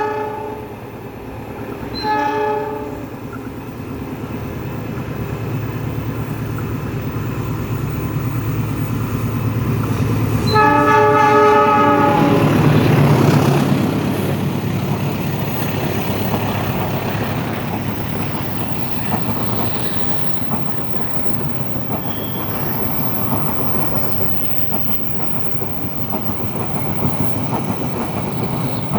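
Diesel locomotive horn sounding a short blast about two seconds in and a longer blast about ten seconds in, over the steady running of the train. After the long blast the train rumbles past on the rails with wheel clatter.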